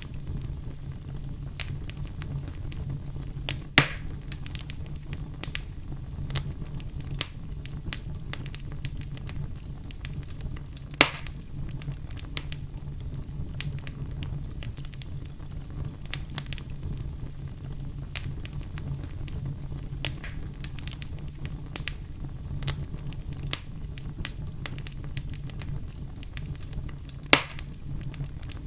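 Wood fire burning in a fireplace, with a steady low rumble and soft, irregular crackling, broken by three loud pops about 4, 11 and 27 seconds in.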